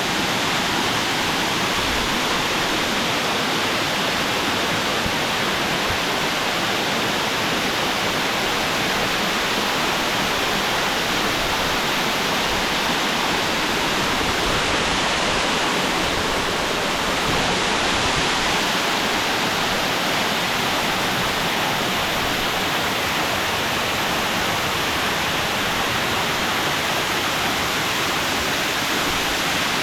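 Waterfall: water pouring down and splashing, a loud, steady rushing noise with no letup.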